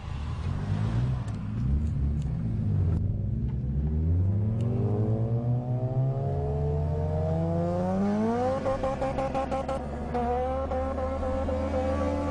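Honda K20 inline-four engine accelerating hard, its revs climbing steadily for several seconds and then holding high, with a brief rapid stutter as they top out.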